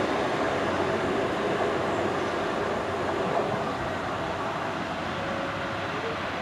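Class 150 Sprinter diesel multiple unit running on the line, a steady engine and rail noise that slowly fades as it draws away.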